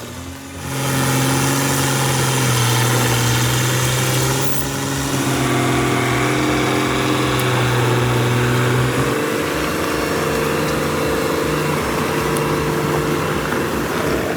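An engine running steadily, coming in about half a second in, with its note shifting about nine seconds in.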